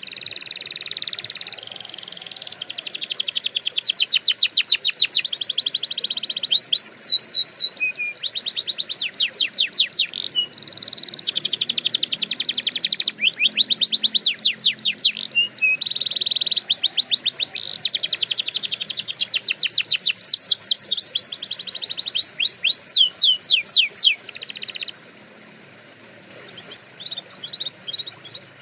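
Domestic canary singing: long, fast trills and rolls of rapidly repeated notes mixed with quick sweeping whistles, phrase after phrase with short breaks between. Near the end the song drops away to a few scattered, quieter notes.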